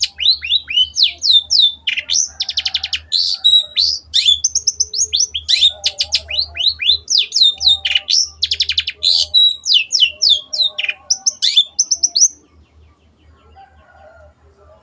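Long-tailed shrike (cendet) singing a fast, varied song of sharp down-slurred notes and rapid rattling trills. It stops abruptly about twelve seconds in.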